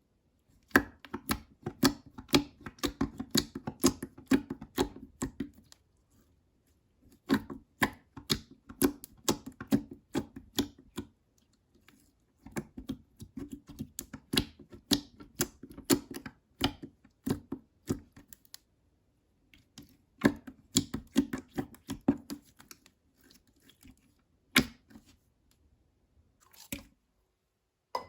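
Slime being squeezed, pressed and folded by hand, giving runs of crisp clicks and air-bubble pops in bursts of several seconds with short pauses, thinning to a few single pops near the end.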